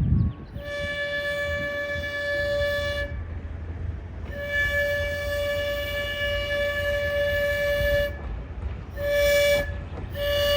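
Locomotive horn sounding the grade-crossing signal: two long blasts, a short one, then a long one that carries on, over a low rumble. A brief low thump comes right at the start.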